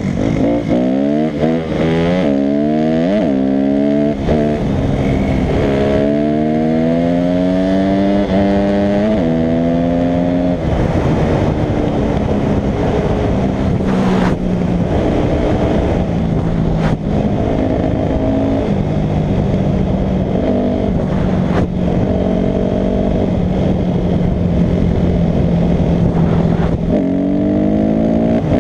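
Dirt bike engine being ridden hard, its pitch climbing and dropping back several times as it shifts up through the gears, then running at a steadier speed and revving up again near the end. A few sharp knocks sound briefly in the middle.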